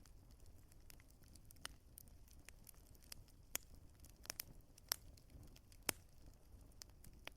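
Wood fire crackling: irregular sharp pops and snaps from the burning logs over a faint low rumble of the flames.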